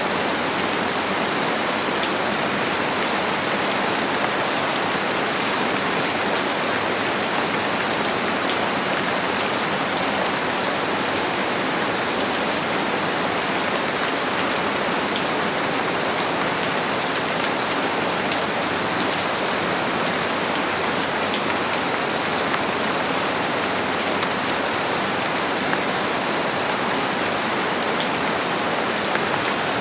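Steady rain falling, a continuous even patter of drops on surfaces, with no thunder.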